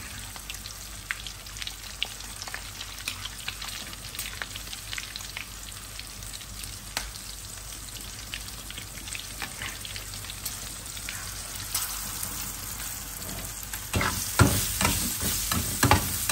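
Kebabs deep-frying in hot oil in a wok: a steady sizzle with scattered crackles and pops as they are stirred with a slotted spoon. About fourteen seconds in, the sizzling turns louder and denser with many pops as green chillies are stirred in hot oil in a small pan.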